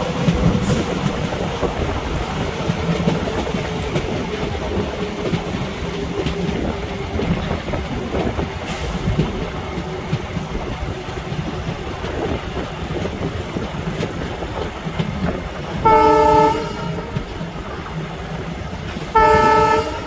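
Train running with a steady rumble, then its horn sounding two short blasts near the end, about three seconds apart.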